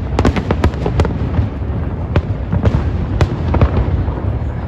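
Aerial fireworks going off in rapid succession: a dense run of sharp bangs and crackles, thickest in the first second, over a constant low rumble.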